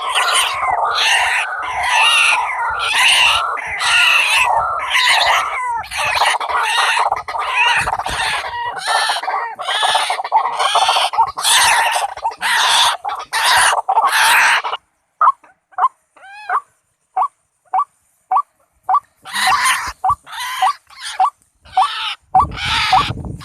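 White-breasted waterhen calls: a dense, loud run of repeated calls, about two a second, that cuts off abruptly about 15 seconds in, followed by sparser single calls with a short space between them.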